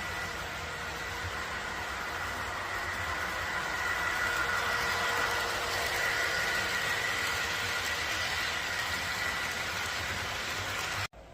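Train running steadily: an even rumbling noise with a steady high whine, a little louder after a few seconds, cut off abruptly near the end.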